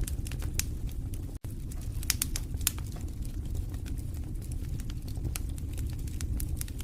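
Wood fire crackling and popping in a fireplace over a steady low rumble of flames, with one instant of silence about a second and a half in.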